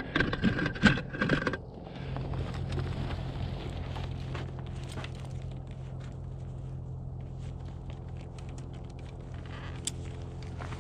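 Brief scraping and rustling of gear being handled. From about two seconds in, a steady, even engine hum takes over, with a single click near the end.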